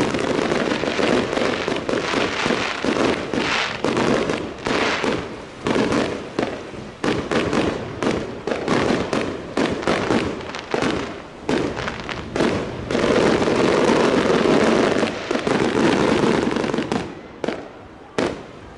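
Fireworks display: a rapid, continuous barrage of bangs from exploding shells. It is densest about two-thirds of the way in and thins out near the end.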